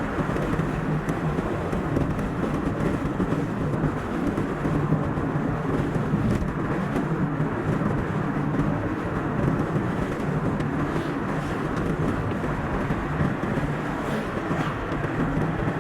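Car driving on a road: a steady mix of tyre and engine noise, played back at double speed.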